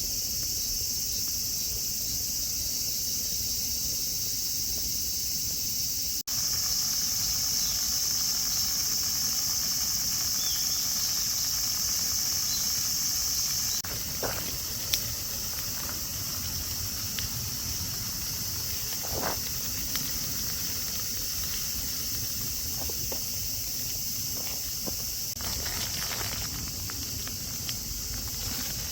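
Steady high-pitched chorus of late-summer insects, its level jumping abruptly twice, with a few faint clicks and knocks.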